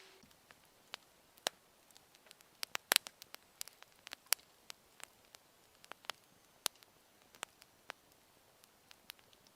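Wood fire crackling: scattered sharp pops and snaps at irregular intervals, a few a second, with the densest, loudest cluster about three seconds in.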